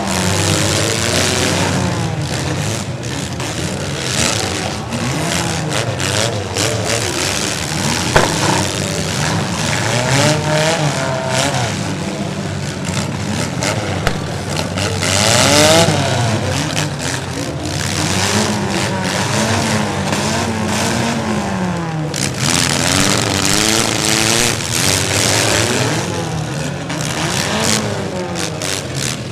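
Several demolition derby car engines revving up and down at once, with a sharp bang of a hit about eight seconds in.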